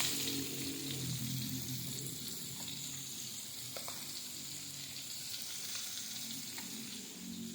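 Hot cooking oil sizzling steadily as food fries in a pan, with a few faint clicks.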